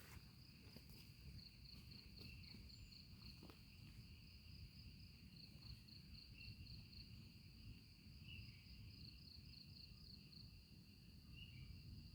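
Faint insect chorus chirring steadily at a high pitch, with a pulsing trill coming and going, over a low rumble.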